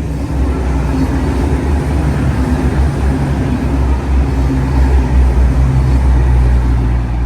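V/Line diesel train passing close by: a steady engine drone over a rumble, growing louder toward the middle and easing near the end.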